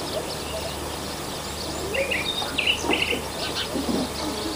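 Small birds chirping a few short times, about two and three seconds in, over a steady outdoor background hiss and hum.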